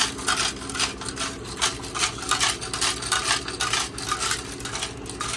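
Rocks rattling and clattering inside a gas tank as it is shaken, several irregular rattles a second without a pause, scouring rust and grime from the tank's inside.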